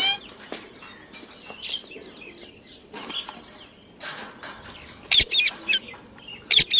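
Indian ringneck parrot calling in short, sharp, high-pitched chirps and squawks, scattered at first, with a quick run of loud calls about five seconds in and again near the end.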